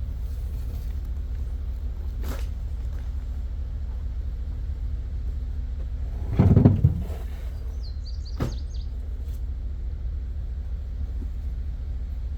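Trash being thrown into a dumpster: a few light knocks and one heavier thud with a rattle about six and a half seconds in, over a steady low rumble.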